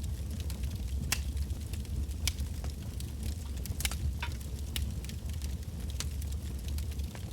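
Wood campfire burning: a steady low rumble of the flames with irregular sharp crackles and pops of burning logs, a few louder snaps among them.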